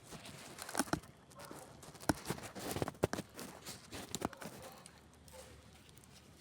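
Campfire crackling, with a run of sharp, irregular pops and snaps that thins out about four and a half seconds in, leaving a faint hiss.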